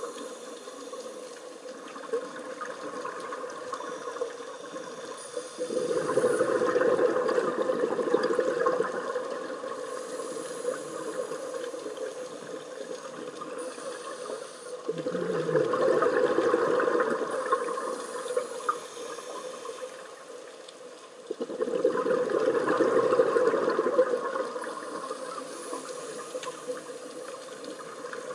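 Scuba diver breathing through a regulator underwater: three bursts of exhaled bubbles, each about three seconds long and about seven seconds apart, with a steady lower hiss between them.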